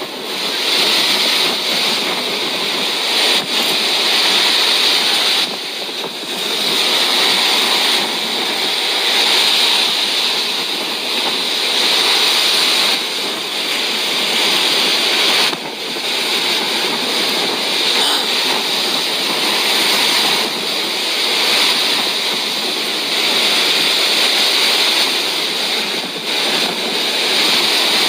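Typhoon storm noise: strong wind and rushing water in a loud, continuous hiss that eases briefly a few times.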